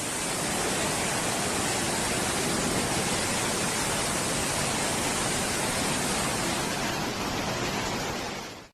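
A steady, even rush of water, as from heavy rain or torrential floodwater, fading out near the end.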